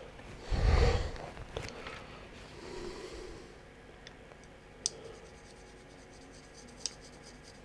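Paintbrush bristles scratching lightly over a miniature as grey paint is dry-brushed on, with a heavy bump about a second in and two sharp clicks later.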